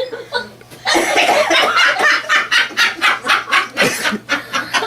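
Hearty laughter. From about a second in it runs as a long string of rapid, breathy ha-ha pulses.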